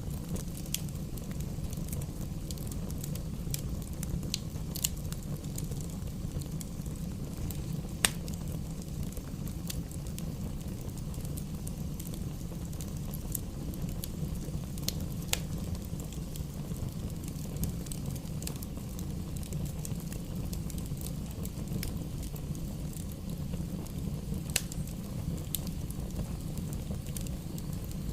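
Wood fire burning in a fireplace: a steady low rumble of flames with scattered sharp crackles and pops from the burning logs, one louder pop about eight seconds in.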